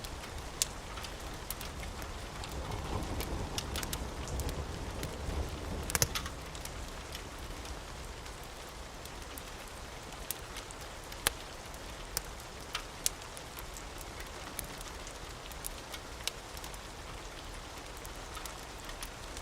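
Steady rain hissing, with scattered sharp crackles and ticks, the strongest about six seconds in. A low rumble under the rain over the first several seconds dies away.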